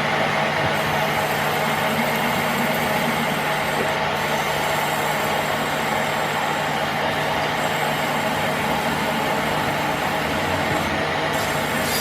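Steady machine noise with a low hum, unchanging throughout.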